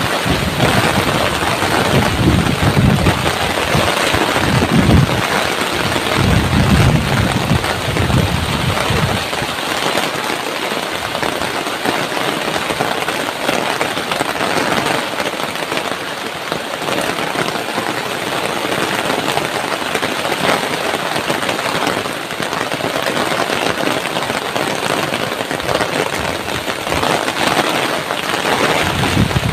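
Heavy rain pouring down in a dense, steady hiss of drops. During the first nine seconds or so, strong wind gusts buffet the microphone with a low rumble.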